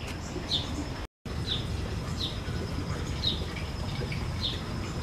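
A bird chirping outdoors, short single notes repeated about once a second, over a low steady background rumble with a thin steady high tone. The sound drops out completely for a moment about a second in.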